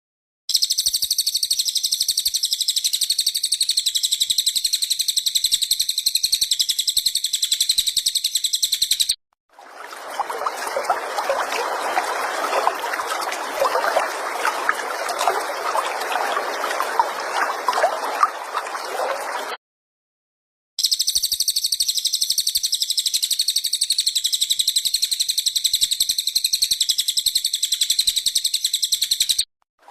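Songbird giving a very fast, high-pitched continuous trill, heard in two stretches of about nine seconds each. Between them is a stretch of running water about ten seconds long, with short silent gaps where the segments are cut.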